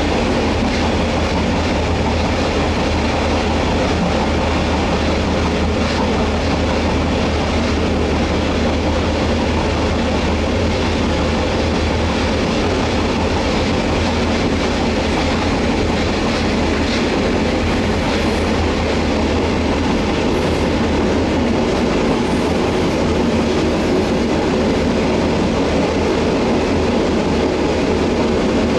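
Taiwan Railway air-conditioned passenger coach running along the line, heard from inside the car: a steady rumble of wheels on rail with some clickety-clack over the joints.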